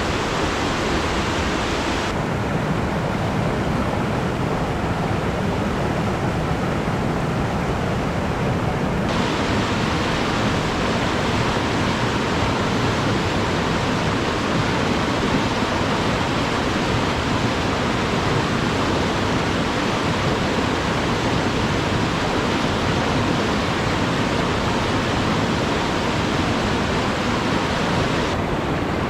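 Alpine river rushing steadily, an even wash of flowing water. For several seconds near the start the higher hiss is weaker.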